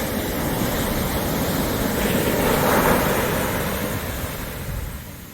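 Ocean surf breaking and washing up the beach, swelling to its loudest about three seconds in, then dying away.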